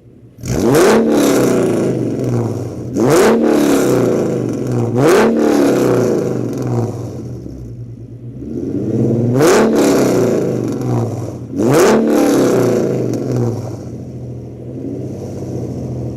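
2008 Ford Mustang 4.0 L V6 with long-tube headers, cat deletes and Cherry Bomb glasspacks, revved hard about five times. Each rev jumps up sharply and drops back, with a loud, raspy exhaust note.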